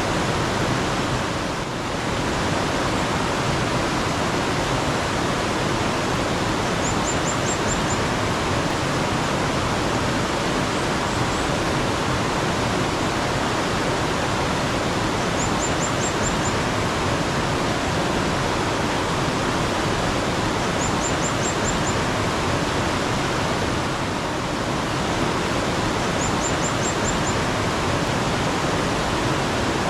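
Steady rush of flowing mountain water, with a small bird giving a brief run of about five quick, high rising chirps that repeats every five seconds or so.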